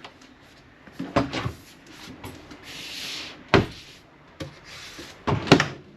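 RV refrigerator and freezer doors being handled: latch clicks, a rubbing or brushing noise about halfway through, and a knock as a door shuts, with the loudest knocks near the end.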